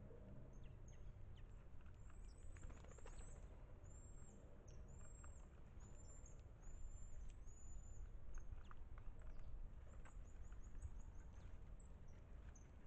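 Faint, high-pitched bird chirps and short whistled calls repeating throughout, with scattered light ticks, over a low steady background rumble.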